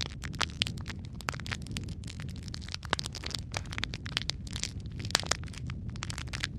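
Wood fire burning in a fireplace, crackling with frequent irregular sharp pops over a steady low rumble of flames.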